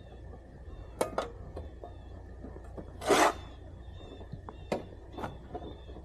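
Snow shovel scraping across the driveway, one short scrape about three seconds in, with a few sharp knocks of the shovel against the pavement around it, over a low steady rumble.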